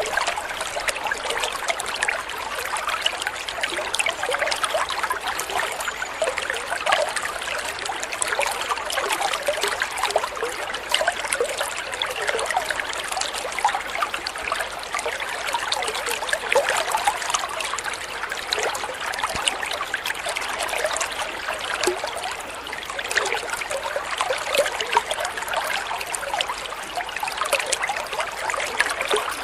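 Running water trickling and burbling steadily, with many small splashes and bubbles.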